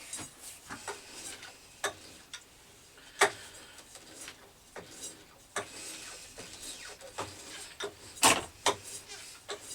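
A 1/4 Whitworth tap being turned by hand into a soft brass nut, with irregular clicks and light knocks from the tap and tap wrench. The two loudest knocks come about three seconds in and about eight seconds in.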